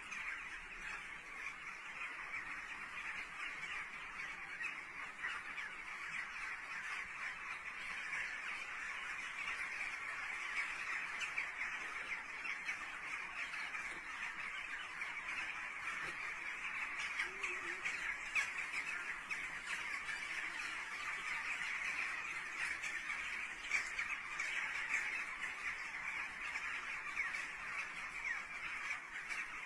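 A large flock of birds calling all at once, a dense, unbroken chorus of overlapping screeching calls.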